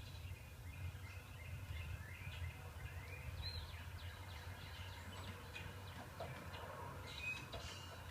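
Small birds chirping and twittering, with repeated short calls and a few rising calls, played back from a bird video on a screen's speaker. A steady low hum runs underneath.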